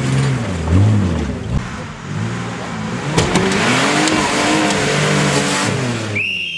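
Off-road 4x4 engine revving up and down over and over as it crawls through a muddy trial section, with a few sharp knocks about three seconds in. A short rising high tone comes in near the end.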